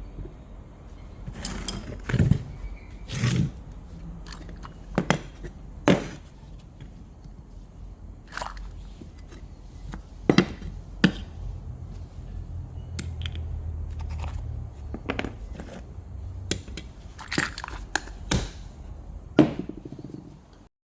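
Irregular clicks, knocks and clinks of metal alternator parts and tools being handled on a workbench, with a low hum for a few seconds midway.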